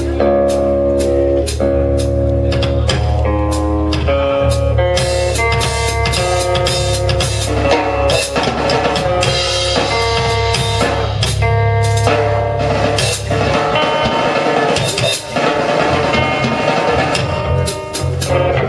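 A live band playing: a drum kit keeps time with kick and snare hits under held chords and a moving melody line.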